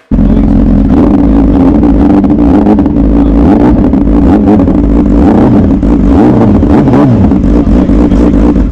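Motor vehicle on the move, with steady, loud engine and road noise close to the microphone.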